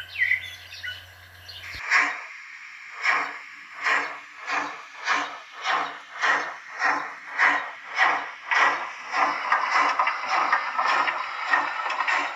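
Sound decoder of a Liliput BR 75 model steam locomotive playing steam exhaust chuffs through its small speaker as the locomotive pulls away, the chuffs starting about a second apart and quickening until they run together near the end. A few bird chirps at the start.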